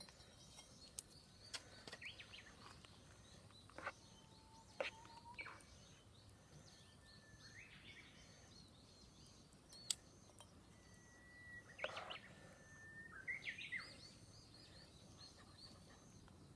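Faint outdoor birdsong: birds calling with short chirps and whistled notes, including two long, steady whistles, over a few sharp clicks.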